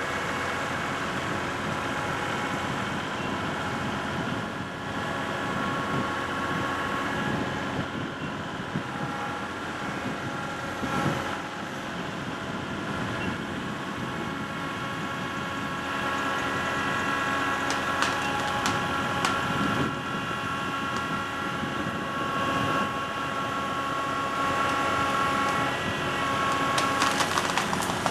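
Kubota L3301 tractor's three-cylinder diesel engine running steadily under load as it pulls on a strap tied to a tree limb. A few sharp clicks come about two-thirds of the way through and again near the end.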